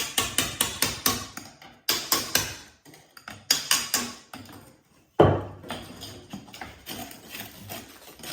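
Hammer blows chipping at a fireplace: quick bursts of sharp strikes, about five a second, then one heavier knock about five seconds in, followed by lighter knocking.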